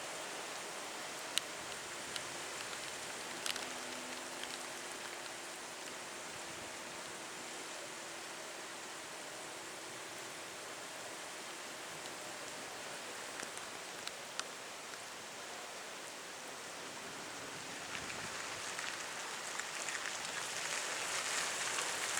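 Steady hiss of heavy typhoon rain, with a few sharp ticks and a faint low hum during the first half.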